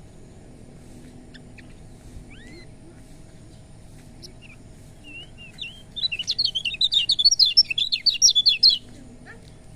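Kecial kuning white-eye calling: a few thin, separate chirps and a short rising whistle, then about six seconds in a rapid, loud twittering song lasting nearly three seconds before it stops. A faint steady hum lies underneath.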